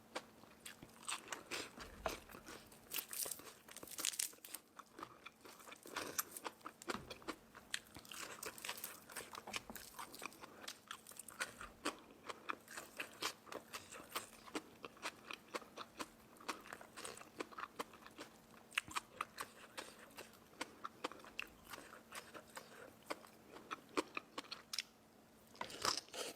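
Continuous crunchy biting and chewing of crispy food: many quick, irregular crackly crunches, a few each second, over a faint steady hum.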